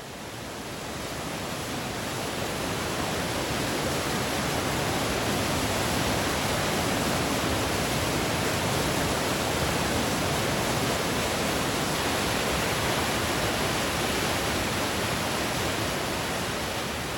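Steady rushing of fast-flowing water, a full even roar that swells up over the first few seconds and then holds.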